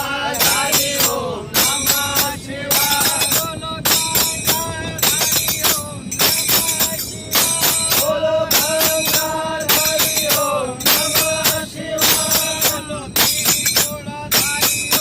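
Devotional bhajan sung live, with jingling hand percussion struck on a steady beat about twice a second under the melody.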